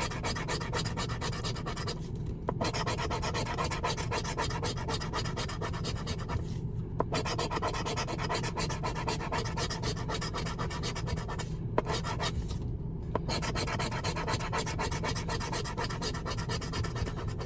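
A scratch-off lottery ticket being scratched off in quick rasping strokes, with a few short pauses between runs.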